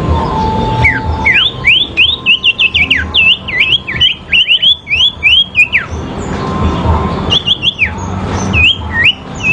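Sirpu songbirds singing: fast runs of sharp, whistled notes sweeping up and down, with a pause in the middle. A low rumbling noise runs beneath them.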